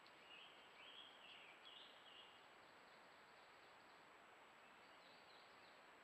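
Faint bird song over steady background hiss: a warbling phrase lasting about two seconds at the start, then a few fainter, higher notes about five seconds in.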